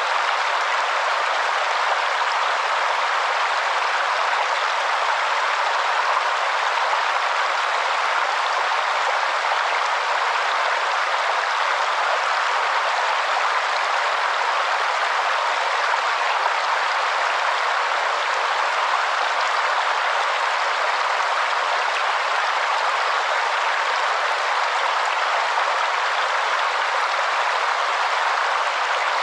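Waterfall: a steady, unbroken rush of falling water, with hardly any deep rumble.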